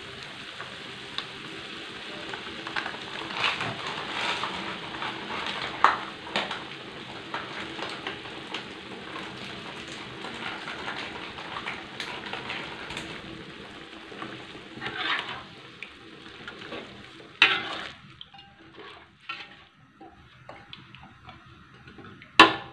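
Spice paste and chicken feet sizzling in a metal wok while a metal spatula stirs and scrapes against the pan, with scattered clicks. The sizzle fades about three quarters of the way through, leaving separate clicks and knocks of the spatula on the wok, the loudest near the end.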